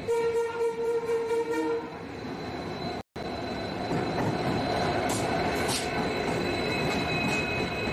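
A train horn sounds one steady note for about two seconds. Then comes the steady rumble of a passenger train moving through the station.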